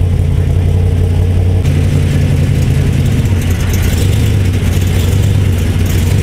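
Car engine idling with a steady, deep, low rumble. A hiss of higher-pitched noise rises over it about two seconds in.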